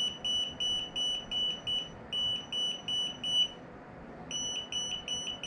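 Non-contact voltage tester beeping: a quick run of short, high-pitched beeps, about three a second, with a short break midway. Held against the hot wire, it is signalling that the wire is live.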